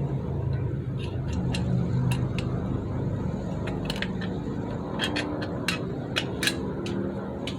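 Light metallic clicks and clinks of drum brake parts (shoes, adjuster and return springs) being handled and seated by hand. A quick run of clicks comes about five to seven seconds in, over a steady low hum.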